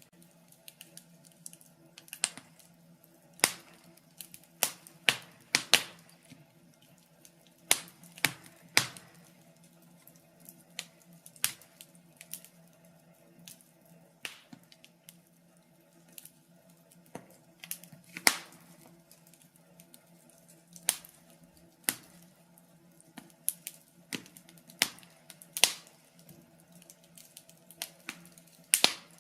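Wood fire burning in a fireplace, crackling with irregular sharp pops and snaps at uneven intervals, over a faint steady hum.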